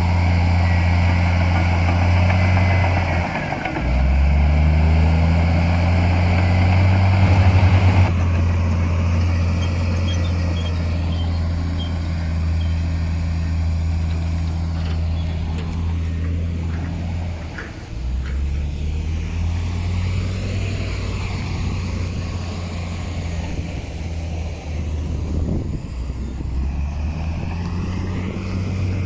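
Heavy earthmoving machine's diesel engine running. Its revs dip and pick up again a few seconds in, and the engine note shifts again about eight and eighteen seconds in.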